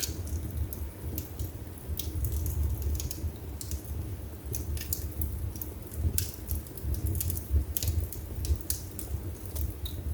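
Wood fire burning in a fireplace: a steady low rumble of flames under irregular sharp crackles and pops from the burning wood.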